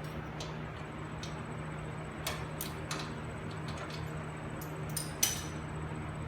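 Scattered light clicks and taps of hand tools being worked on a wheel hub assembly, irregular and a few seconds apart, the sharpest one about five seconds in, over a steady low hum.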